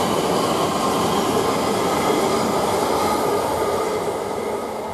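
Two coupled Class 720 electric multiple units running past, a steady rush of wheels on rail with a faint steady whine, slowly fading near the end.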